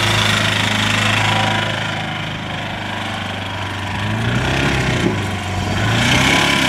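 Vauxhall Cavalier engine running hard on its way to destruction, with a steady low drone; the revs rise and fall over the last few seconds. The engine is failing and dies shortly after, with its oil pressure in question.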